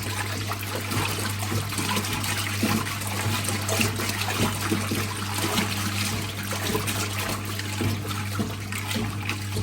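1958 Hotpoint Empress washing machine agitating a load of washing in soapy water: a steady churning and sloshing of water over the motor's steady low hum.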